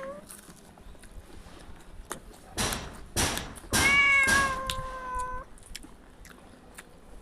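A cat meowing: one long meow that starts about four seconds in and holds a steady pitch for over a second, just after two short harsh noisy sounds.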